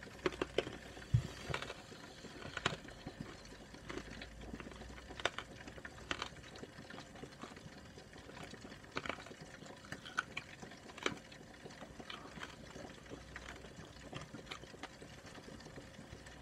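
A person chewing a mouthful of slow-cooked pork tongue, ear, face meat and pork scratchings close to the microphone: irregular wet smacks and small clicks, a few a second.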